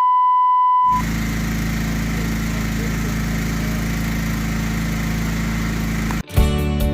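A steady 1 kHz censor bleep lasting about a second, covering the end of the phrase "Vote for". It gives way to an engine running at a steady speed, which cuts off suddenly near the end.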